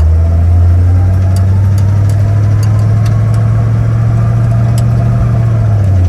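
1968 Ford Torino GT's V8 engine pulling steadily under way. Its note rises slightly early on and drops near the end as the three-speed automatic shifts up, a soft shift that the driver puts down to the transmission being a touch low on fluid.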